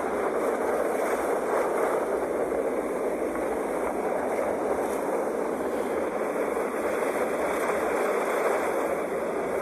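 Sea waves washing onto the shore, heard as a steady rushing surf noise that swells slightly now and then.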